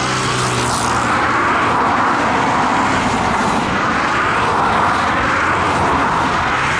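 Jet airliner's engines running with a steady, loud rushing noise.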